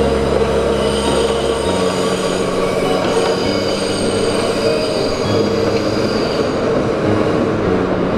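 Kintetsu electric train running past on the track below, a steady rumble and hum with thin high-pitched wheel squeal coming and going.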